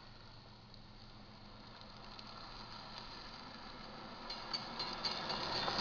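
Rumble of an approaching freight train, growing steadily louder; about four seconds in, the grade-crossing warning bell starts ringing in quick strokes, about four a second, as the crossing signals activate for the train.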